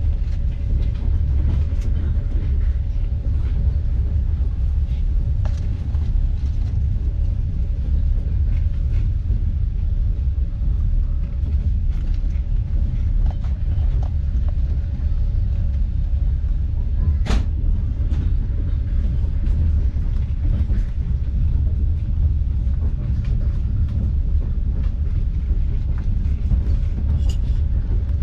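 Steady low rumble of a moving passenger train heard from inside the carriage, with a faint steady hum and scattered light clicks, one sharper click about seventeen seconds in.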